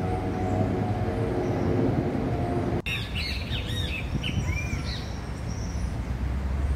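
Birds chirping in quick, rising-and-falling calls for a couple of seconds, over a steady low rumble of outdoor background noise. There is an abrupt break about three seconds in.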